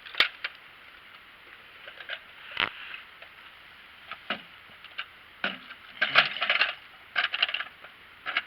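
Plastic toy train caboose being handled and fitted back onto its track: scattered light clicks and clatters of plastic on plastic, with a busier run of rattling about six seconds in.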